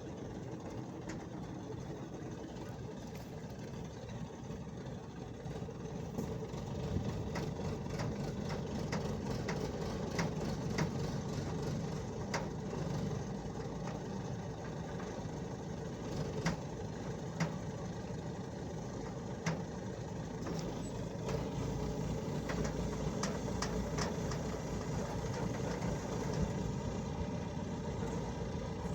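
A construction-site engine running steadily, with scattered sharp knocks over it.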